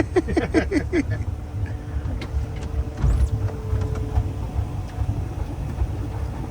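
Boat engine idling with a low steady rumble and a faint steady whine, with a short burst of laughter in the first second.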